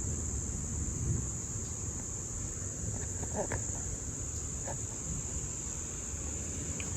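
Steady high-pitched insect chorus over a low rumble.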